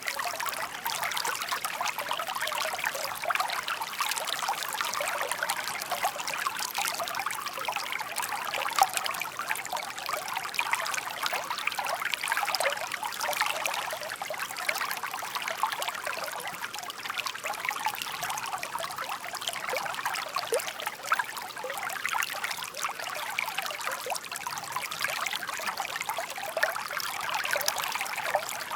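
Shallow stream babbling and trickling over stones, a steady bright splashing with no pauses.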